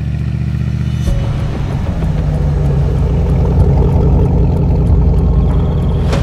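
Vehicle engine running, growing steadily louder as the vehicle approaches.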